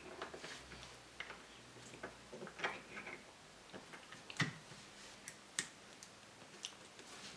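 Irregular light clicks and taps of small metal tools and engine parts being handled on a workbench. The loudest click comes a little past halfway.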